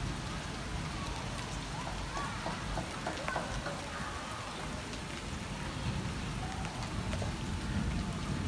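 Steady hiss of monsoon rain falling, with a low rumble of wind on the microphone.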